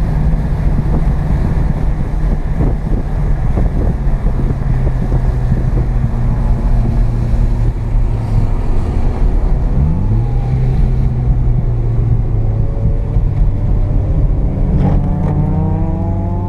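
Carbureted 12A rotary engine of an FB Mazda RX-7 heard from inside the cabin, running at low steady revs over road and wind noise. About ten seconds in the revs climb briefly, and near the end they rise steadily.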